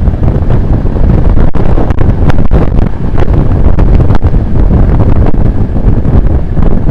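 Heavy wind buffeting the microphone of a camera on a road bike at speed downhill: a loud, steady rumble with a few brief dropouts.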